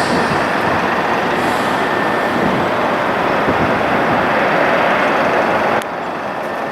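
Jet airliner engine noise, a loud steady rushing that drops suddenly about six seconds in.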